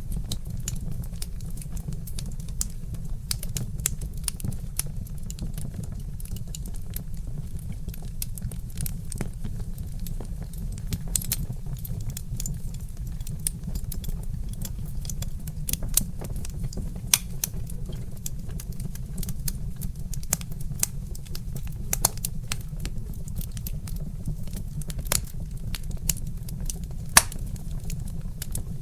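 Wood fire crackling, with many small clicks and a few sharper pops, over a low steady rumble.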